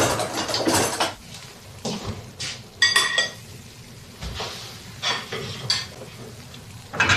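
Dishes and cutlery clinking and knocking as tableware is handled at a meal, with one clear ringing clink about three seconds in.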